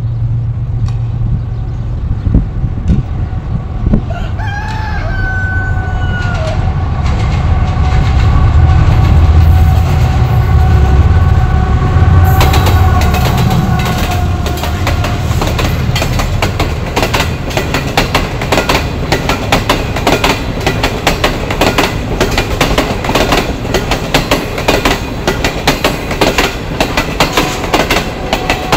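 Pakistan Railways Green Line express passing at speed: the diesel locomotive sounds its horn about four seconds in and its engine rumble builds to a peak. From about twelve seconds in, the coaches rattle past with rapid, continuous clickety-clack of wheels over the rail joints.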